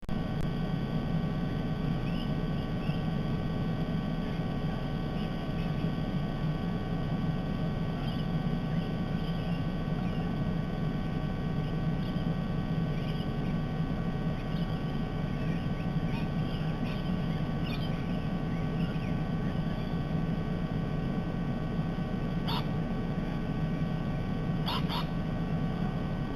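Steady low outdoor rumble with faint, scattered bird chirps throughout, and a few louder, sharper bird calls about 22 and 25 seconds in.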